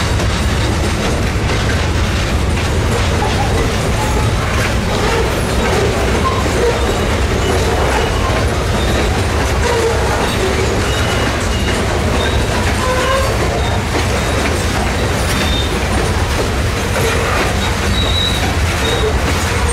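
Freight train of covered hopper cars rolling past: a steady, loud rumble of wheels on rail. Short wheel squeals come and go throughout, with a higher-pitched squeal near the end.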